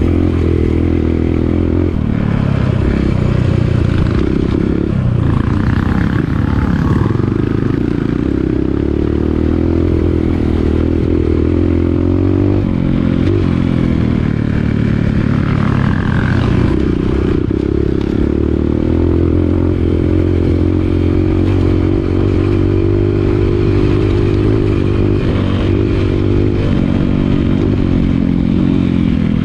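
Dirt bike engine running under way on an off-road trail, its pitch shifting slightly up and down with the throttle.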